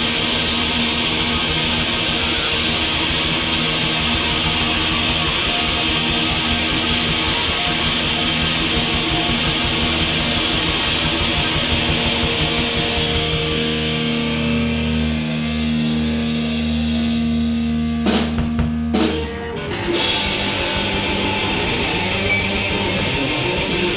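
Live rock band with electric guitars and drum kit playing, a song ending on a held chord with two final hits about three-quarters of the way through, then looser guitar sound.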